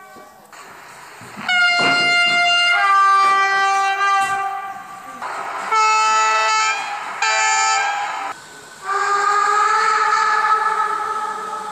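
Train horns sounding in a run of blasts of differing pitch, each a chord of several steady notes: two held blasts back to back, two short blasts of about a second each, then a long held blast starting about nine seconds in.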